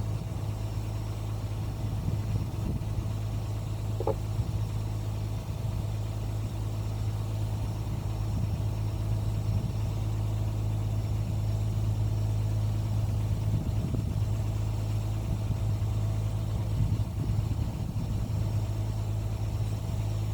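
Excavator's diesel engine running steadily at idle, a constant low hum, with a few faint knocks over it.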